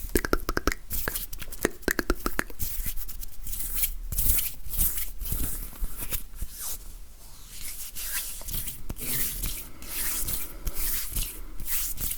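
Close-miked ASMR hand sounds: palms and fingers rubbing together with a dry, crackly rustle and many quick clicks.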